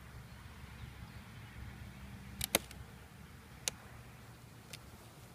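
A few sharp taps and clicks from handling a wooden beehive, a close pair about two and a half seconds in, then two single ones, over a low steady hum.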